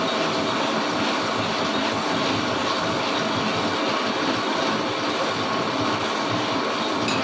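Lathe running steadily while its cutting tool turns a Suzuki APV brake disc, a continuous even machining noise.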